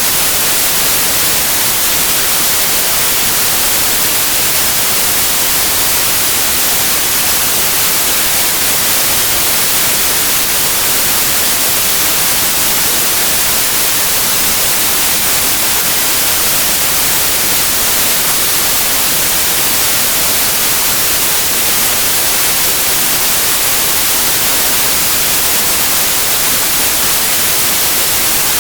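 Synthetic white noise: a loud, steady hiss, brightest in the treble, with no melody, rhythm or change.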